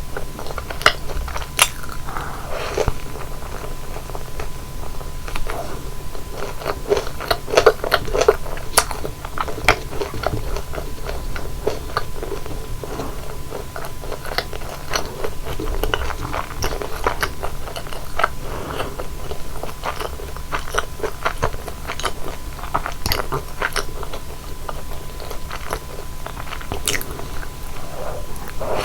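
Close-miked crunching and chewing of deep-fried flower buns, their crisp fried crust crackling in many small, sharp crunches, bite after bite.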